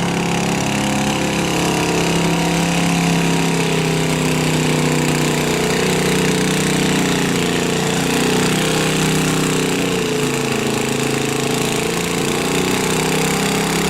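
Garden tractor's engine running hard and steady, likely under load pulling the sled. Its pitch wavers and sags about ten seconds in, then picks back up.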